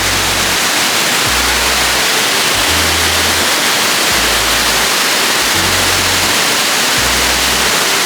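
Steady roar of Shifen Waterfall, a dense, even rush of falling water, with the bass line of background music stepping between low notes beneath it.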